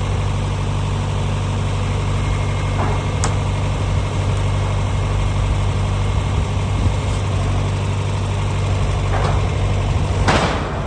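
Tractor engine running steadily at a low idle-like pace, with a sharp click about three seconds in and a few brief rattles or scrapes near the end.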